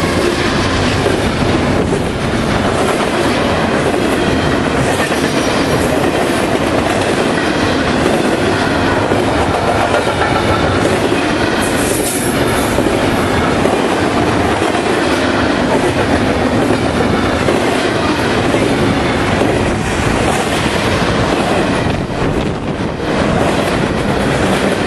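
Freight train cars passing close by at speed: a steady, loud rolling noise of steel wheels on the rails, with a brief high hiss about halfway through.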